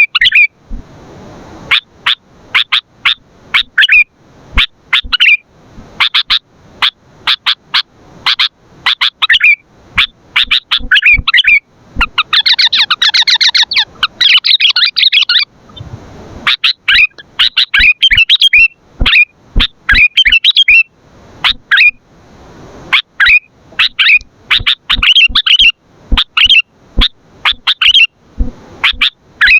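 Sooty-headed bulbul (kutilang) calling loudly: a long run of sharp, short chirps and whistled phrases. About twelve seconds in comes a dense burst of rapid chattering lasting some three seconds, and then the single calls resume.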